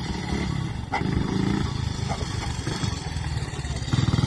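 Fowler steam ploughing engine running with a fast, continuous low rumbling beat, a little louder near the end.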